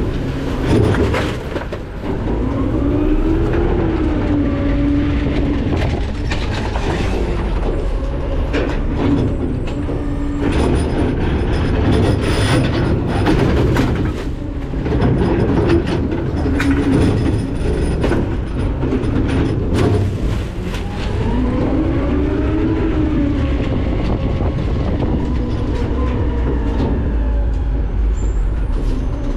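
McNeilus ZR rear-loading garbage truck working its hopper: the diesel engine and hydraulics run steadily, with the whine rising and falling twice as the engine revs for the packing cycle. Many sharp cracks and clanks come through as trash is crushed in the hopper.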